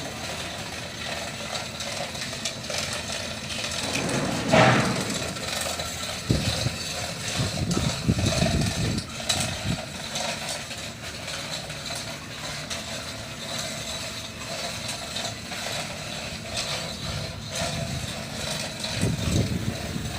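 Boat's steering gear being worked: irregular mechanical clanking and knocks, the loudest about four and a half seconds in, with a busier run of knocks a couple of seconds later.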